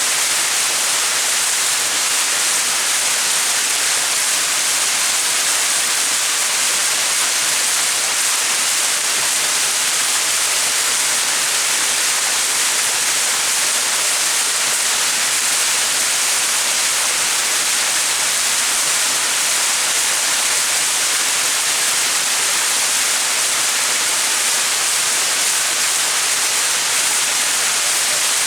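Small mountain waterfall: water splashing steadily in an even, hissing rush.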